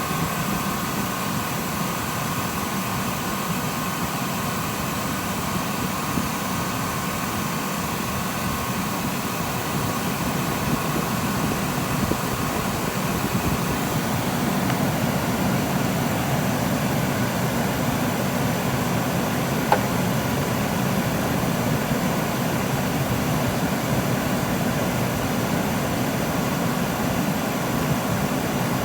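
1999 Chevrolet Astro's 4.3-litre V6 idling with the air conditioning running: a steady hum and hiss that grows slightly louder about halfway through.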